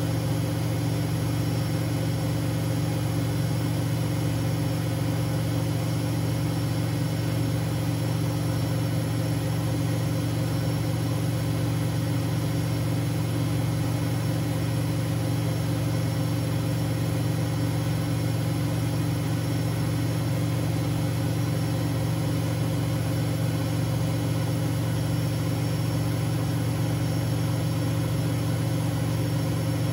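Siemens Siwamat 6143 washing machine running with a loud, steady low hum that does not pause or change.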